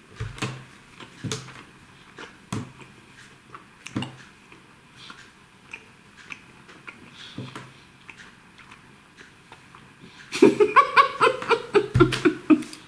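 A man chewing a mouthful of gummy bears with soft, wet mouth smacks, then laughing with his mouth full in a quick run of chuckles for the last two or three seconds.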